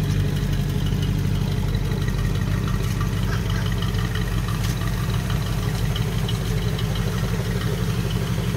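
A 1967 Chevy Impala's 327 small-block V8 idling steadily.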